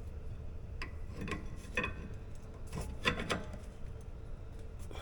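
A few short metallic clicks and scrapes from needle-nose pliers levered against a brake caliper and rotor edge to press the caliper piston back, over a steady low hum.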